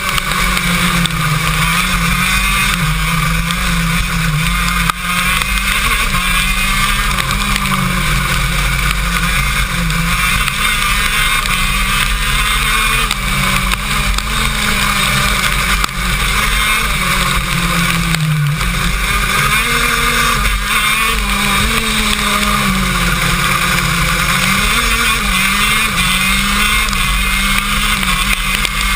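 KZ2 shifter kart's 125cc two-stroke engine running hard on track, heard from onboard; the engine note rises and falls repeatedly as the kart accelerates and slows through corners.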